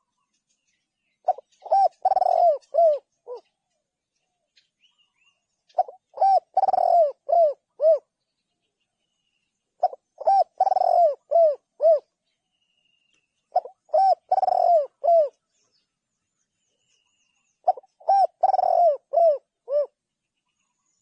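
Spotted dove cooing: five phrases about four seconds apart, each a quick run of several coos lasting about two seconds.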